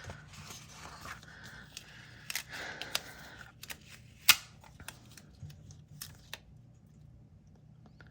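Hands handling paper stickers on a planner page: rustling and scraping with small clicks and taps, and one sharp click a little after four seconds in.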